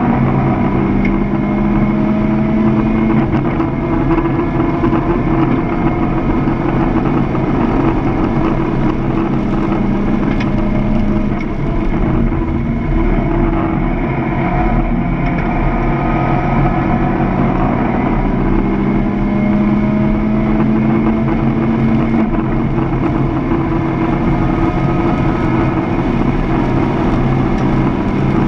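Car engine under hard driving on a track, heard from inside the cabin: the revs climb and fall repeatedly through gear changes and braking, over steady road and wind noise.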